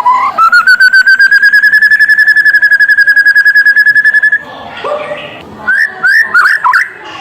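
White-rumped shama song: a long, fast trill that rises at the start and then holds level for about four seconds, followed near the end by a few short, quick swooping whistles.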